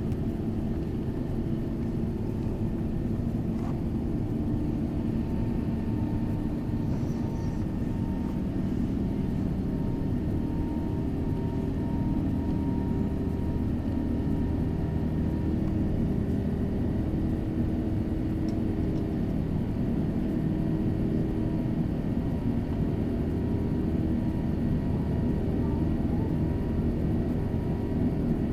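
Steady drone of an Airbus A380's Engine Alliance GP7200 engines and airflow, heard from inside the passenger cabin at a window seat. Low and even, with several steady tones running through it.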